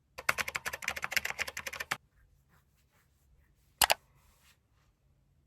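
A rapid, dense run of clicks and clatter for about two seconds, then a single sharp click a little under two seconds later.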